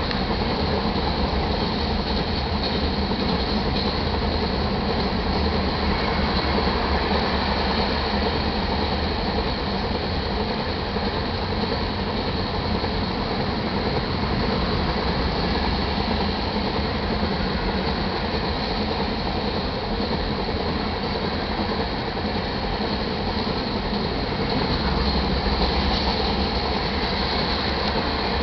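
Iron ore cars of a BNSF freight train rolling past, a steady rumble and rattle of steel wheels on the rails.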